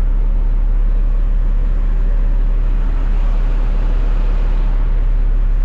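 Front-loader garbage truck's engine running steadily with a constant low hum.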